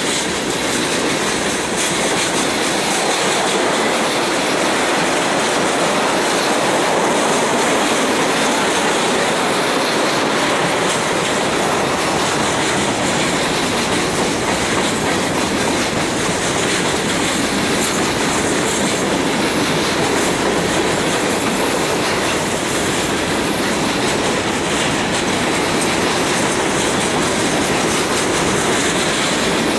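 Freight train's tank cars and covered hopper cars rolling past close by: steel wheels running on the rails make a steady, loud rumble that holds throughout.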